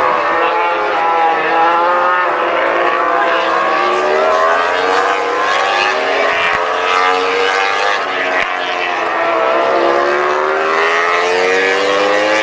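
MotoGP racing motorcycles running at high revs, several engines overlapping, their pitch rising and falling as the bikes go past.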